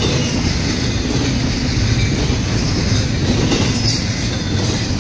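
Freight train cars passing close by at a grade crossing: a steady rumble of wheels on the rails, with a brief high squeal near the end.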